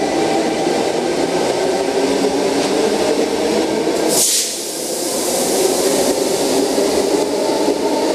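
Tangara electric train running at an underground platform, with a steady hum and whine throughout. A short sharp hiss of air comes about four seconds in.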